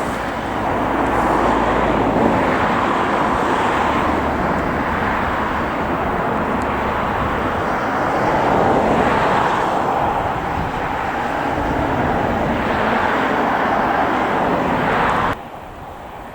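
Jet airliner engines running loud and steady, a broad rushing roar that swells and eases slowly, then cuts off abruptly near the end.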